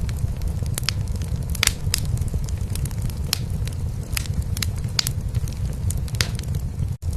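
Wood fire crackling in a fireplace, with irregular sharp pops, over a steady low cat purr. The sound drops out for an instant near the end.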